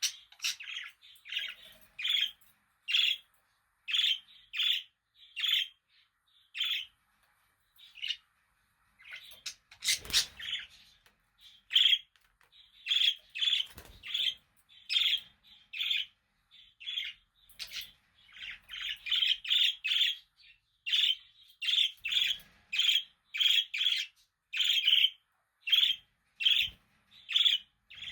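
Budgerigar chirping: a long run of short, bright chirps, about two a second, with a brief lull partway through. A short burst of noise, about ten seconds in, breaks into the chirping.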